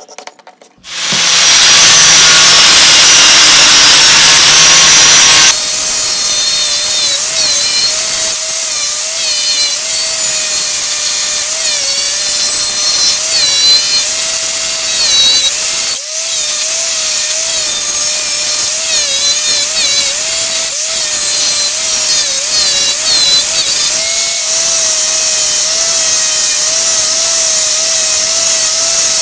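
A handheld electric power tool starts about a second in and runs continuously. Its motor pitch wavers up and down as it is pressed into the work.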